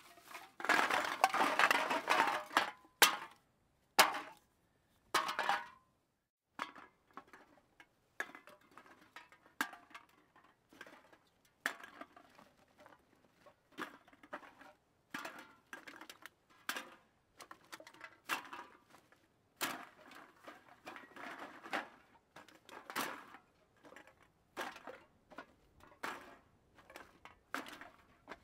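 A clattering crash of hard objects, then single sharp knocks, then a long run of scattered small clinks and rattles with a few louder clusters.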